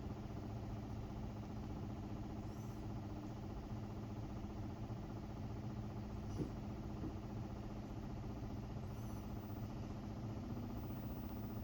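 Samsung WA50R5200AW top-load washing machine running steadily with an even motor hum, spinning a single pair of pants, a badly imbalanced load that it has now settled into without stopping. A faint tick about six seconds in.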